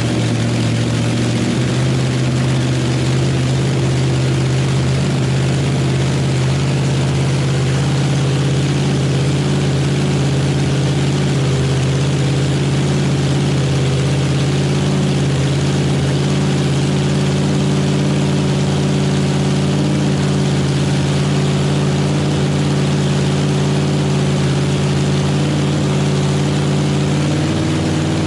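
Chevrolet small-block V8 running steadily on its first start, its revs stepping up slightly about a second and a half in and easing back near the end. The carburettor is not yet tuned.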